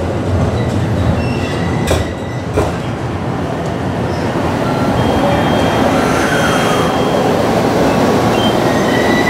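JR Central commuter electric train running into the platform alongside: a steady rumble of wheels on rail, two sharp clacks over a rail joint about two seconds in, and a few thin high-pitched squeals.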